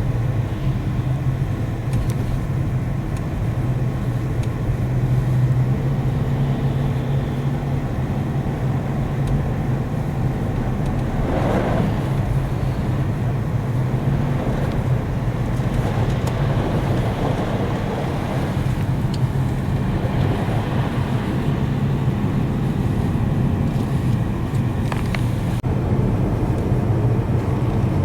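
Steady road and engine noise of a Toyota C-HR driving on a snowy, slippery road, heard from inside the cabin, with one brief louder swell about eleven seconds in.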